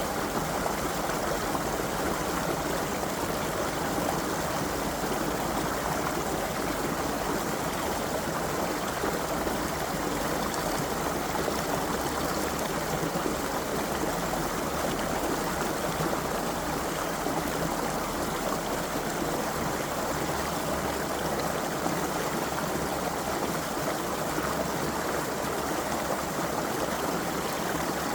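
Creek water flowing over stones, a steady rushing and babbling with no pauses or changes.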